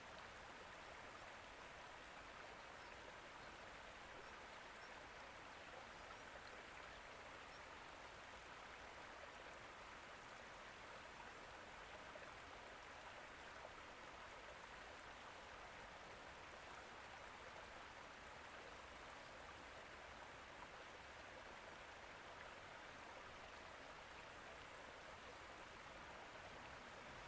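Faint, steady rush of running water with no distinct splashes or drops.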